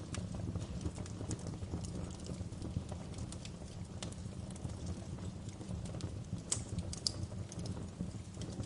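Wood fire burning in a fireplace: a steady low rumble with irregular crackles and pops, two louder pops about half a second apart near the end.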